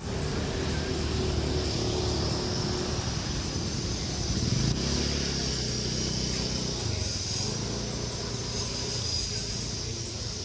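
Jet airliner engines running with a steady high whine over a low rumble, with a lower engine hum that swells and falls away a few seconds in.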